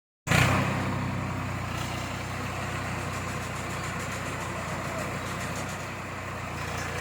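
Tractor engine running steadily at a constant speed, with a low, even beat.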